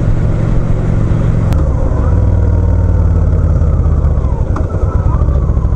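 Motorcycle engine running steadily while riding, heard through a helmet-mounted microphone along with wind noise; the engine note changes about two seconds in.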